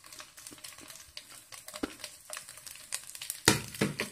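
Hot coconut oil crackling in a pan with popped mustard seeds and freshly added coconut pieces: a scatter of small pops. Two louder knocks come about three and a half seconds in.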